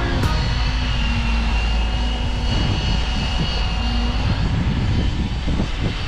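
Putzmeister 32 m truck-mounted concrete boom pump's engine running steadily, with strong wind rumbling on the microphone.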